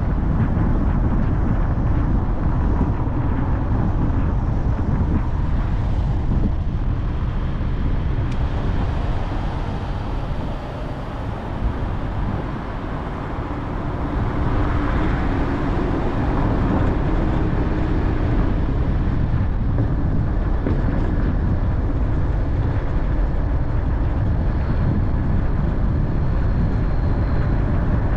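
A car driving: steady engine and road rumble. It quietens for a few seconds around the middle, as if easing off or slowing, then picks up again.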